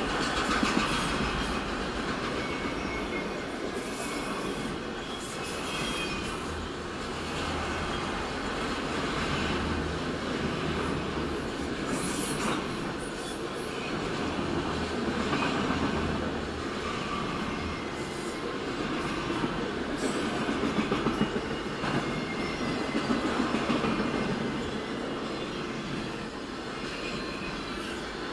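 Freight train of multilevel autorack cars rolling steadily past: a continuous rumble and clatter of wheels on rail, with faint wheel squeal and a few sharp clanks. Heard from inside a parked car.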